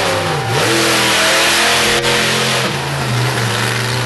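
Shell-Camino monster truck's 1600 hp engine revving hard, its pitch dropping sharply about half a second in and climbing straight back, then holding and shifting as the throttle changes. A single sharp crack about two seconds in.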